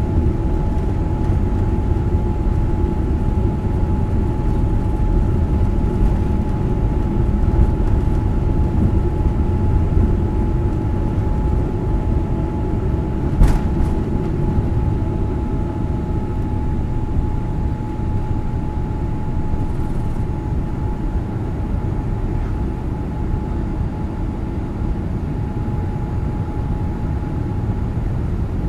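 Boeing 787 Dreamliner's engines running, a steady rumble with a steady high whine over it, and a single sharp click about halfway through.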